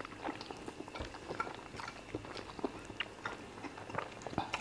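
Wet chewing, lip smacks and finger-licking of people eating fufu with peanut spinach soup and chicken by hand, a string of small irregular clicks and smacks.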